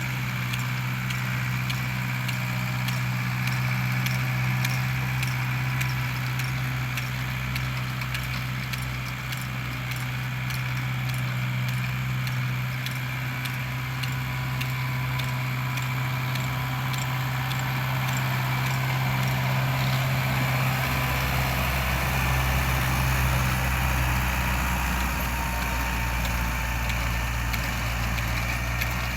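Same Corsaro 70 DT tractor's diesel engine running steadily, with a light metallic rattle of regular ticks over it. About three-quarters of the way in, the engine note shifts lower and deeper.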